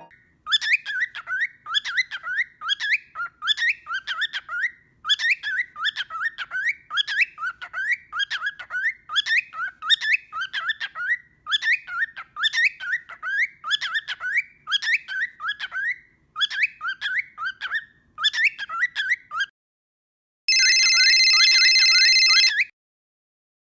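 Cockatiel chirping in quick rising chirps, in runs of a second or two with short pauses between them. Near the end the chirping stops, and a steady electronic beep sounds for about two seconds.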